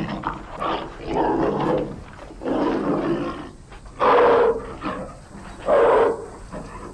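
Tiger growling: a series of about five short, rough growls, roughly one every second and a half.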